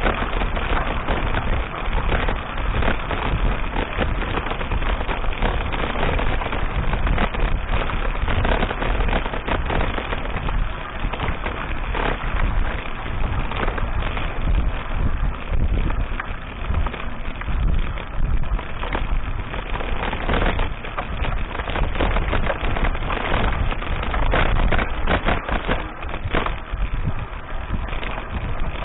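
Mountain bike riding over a rough dirt track: a steady rushing noise with many quick knocks and rattles from the bumps.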